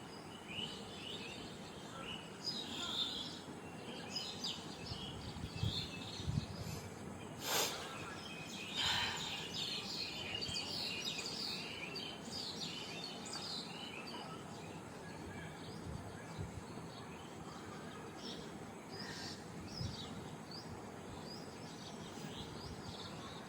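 Small birds chirping off and on over a steady background hiss, with one short, sharp noise about seven and a half seconds in.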